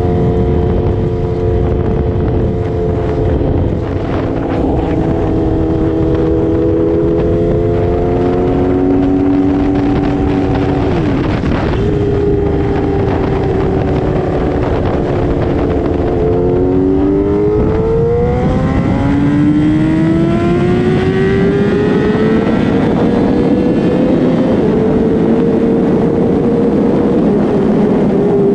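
Sportbike engine running at road speed under heavy wind noise. Its pitch eases down slowly for the first ten seconds, dips briefly about eleven seconds in, then rises steadily as the bike accelerates through the second half.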